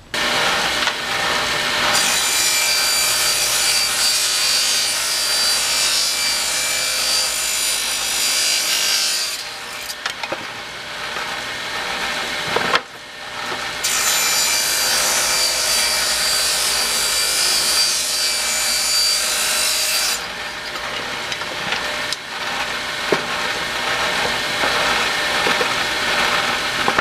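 Power saw cutting 3/4-inch pine at an angle of about 32 degrees, with two long passes through the wood, each about six to seven seconds long, starting about two seconds and fourteen seconds in. The motor keeps running between and after the cuts.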